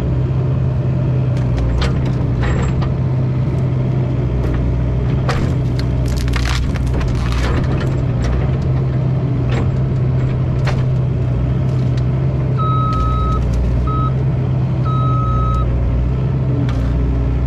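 Mini excavator's diesel engine running steadily under work, with scattered cracks and knocks as it drags a large juniper tree. About 12.5 seconds in there are three short steady beeps.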